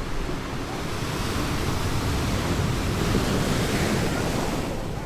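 Ocean surf on a beach: a rushing wash of a breaking wave that builds through the middle and eases near the end, with some wind rumbling on the microphone.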